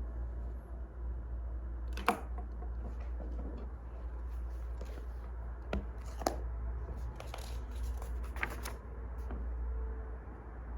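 Wood fire burning with a low steady rumble and scattered sharp crackles and snaps, the loudest about two seconds in and a cluster near the end.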